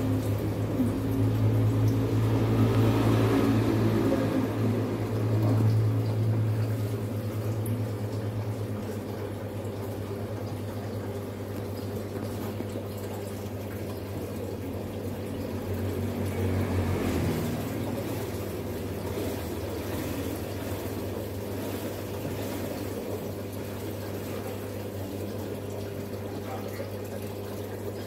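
Water splashing and running in an ornamental-fish tank over a steady low pump hum, louder in the first few seconds and again briefly about halfway through.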